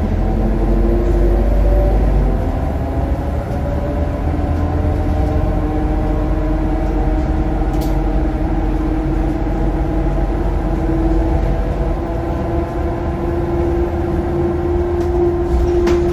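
Scania K230UB bus with a ZF Ecomat automatic gearbox on the move: a steady drivetrain drone over a low rumble, with a whine that climbs slowly in pitch as the bus gathers speed. A couple of brief clicks.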